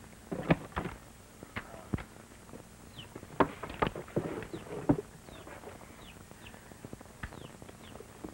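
Birds chirping, with short falling calls repeating every half second or so, over a series of sharp knocks and thuds that are loudest in the first five seconds.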